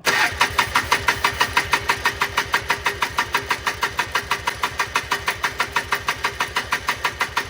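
1995 Polaris Trail Boss 250's two-stroke single-cylinder engine being cranked over steadily, about six compression strokes a second, without catching. It is crank-no-start, which the owner suspects is flooding.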